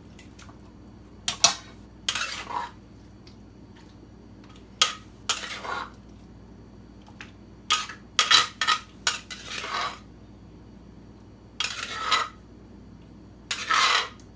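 Utensils clinking and scraping against dishes: irregular sharp clinks and short scrapes, with gaps between them, as papaya salad is stirred and moved about.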